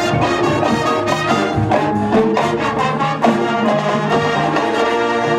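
High school marching band playing its halftime show: brass (trumpets and trombones) sounding full chords over a steady drum beat.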